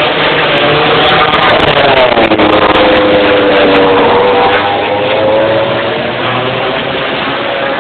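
MotoGP racing motorcycle engine, an 800 cc four-stroke, running at high revs past the track. Its pitch drops about two seconds in as it goes by, then holds fairly steady and the sound eases off slightly.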